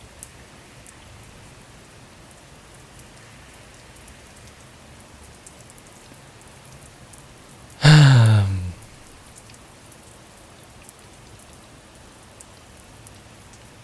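Steady rain falling, an even patter. About eight seconds in, a man's voice makes a short wordless sound that falls in pitch.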